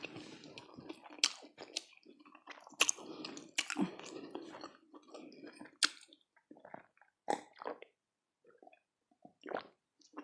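Close-miked eating sounds: wet chewing and lip smacking with sharp clicks for the first six seconds, then a run of short gulps as a drink is swallowed from a glass.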